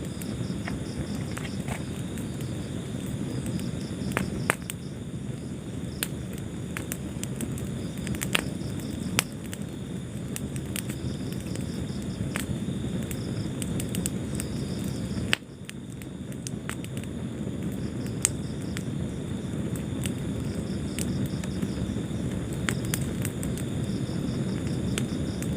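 Wood fire burning in a fireplace: a steady low rumble of flames with frequent sharp crackles and pops. The rumble drops suddenly about fifteen seconds in, then builds back.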